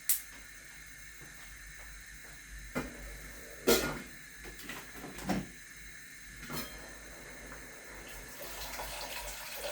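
Steady faint hiss on the stove with a few short clunks of cookware, the loudest just under four seconds in.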